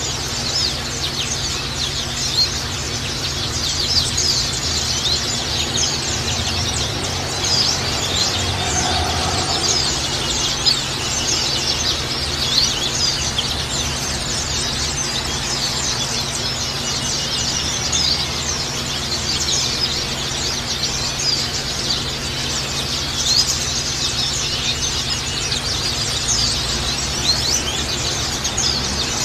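White-eyes (pleci) chirping continuously: many short, high calls overlapping in a dense, unbroken chatter.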